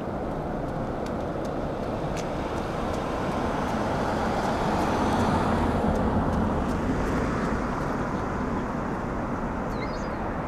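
Road traffic noise with a vehicle going past, louder about halfway through.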